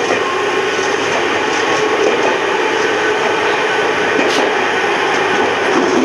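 Ohmi Railway electric train running along the line: steady running noise and hum from the moving train, with a few faint clicks.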